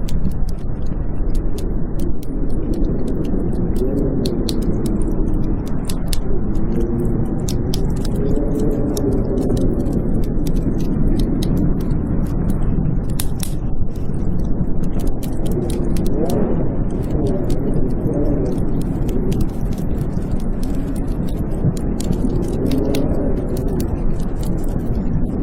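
Blizzard wind howling in low, wavering tones that rise and fall, with a wood fire crackling in irregular sharp pops over it.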